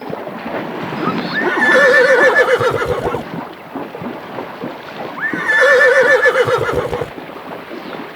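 Horse whinnying twice, about four seconds apart, each call starting with a quick rise and then quavering for a second or so.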